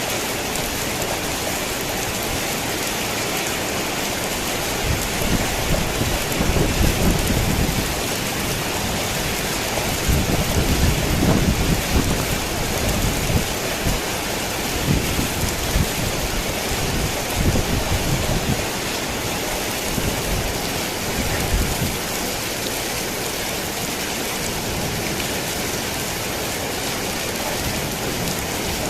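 Steady rain falling on a thick tin roof, with rolls of thunder rumbling from about five seconds in until roughly two-thirds of the way through, loudest in two swells early in that stretch.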